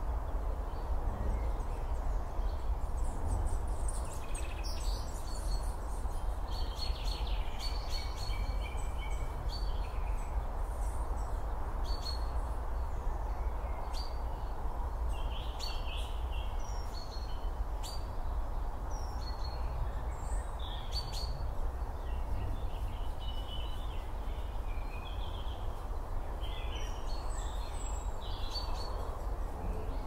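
Woodland birds chirping and calling here and there over a steady low rumble of background noise.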